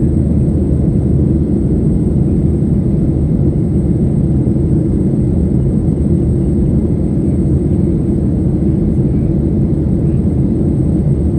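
Boeing 737-800 jet engines (CFM56-7B) running in a steady low rumble during departure, with no rise or fall in level.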